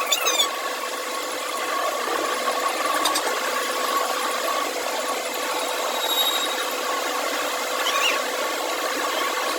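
Workshop machine motor running steadily with a two-note hum and a rushing noise, with brief high squeals right at the start and again about eight seconds in.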